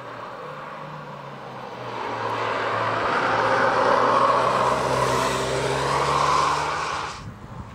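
Hyundai i20 N prototype's turbocharged four-cylinder engine being driven hard past the microphone. It grows louder over a couple of seconds, with its pitch rising and falling through the gears and corners, then cuts off suddenly near the end.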